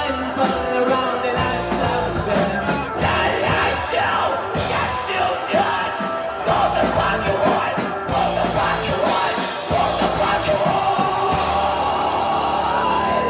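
Live rock band playing loudly with sung and shouted vocals; near the end a single high note is held steady.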